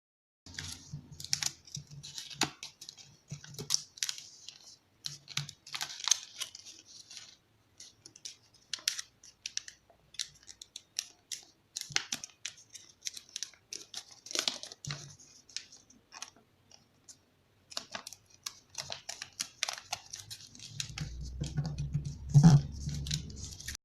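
Sheet of origami paper being folded and creased by hand: irregular rustling, crinkling and sharp creasing clicks, with a louder knock near the end.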